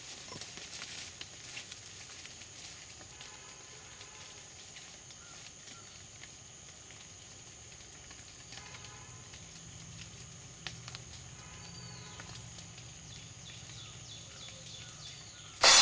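Faint outdoor ambience with a steady high hiss and a few distant animal calls scattered through it. Loud music starts right at the end.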